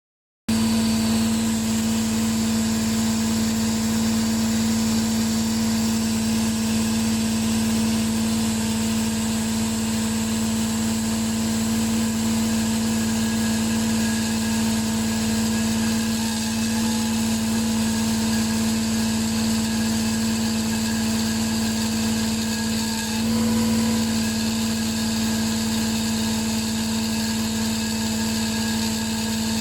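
A hydraulic diamond concrete-cutting chain saw and its power unit running steadily, with a strong constant hum. The sound wavers briefly about 23 seconds in.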